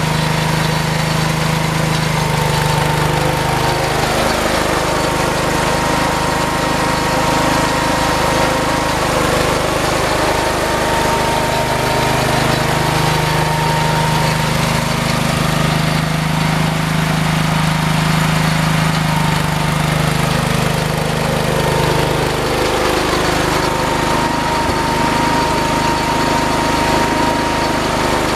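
Engine running continuously under work, its pitch sagging and recovering a few times as the load changes, with a thin high whine that comes and goes.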